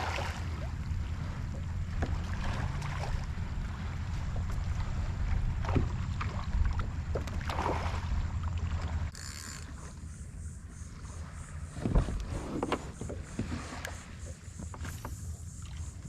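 Water sloshing and lapping against a kayak hull, with a low wind rumble on the microphone. The rumble drops off abruptly about nine seconds in, and a sharp knock comes a few seconds later.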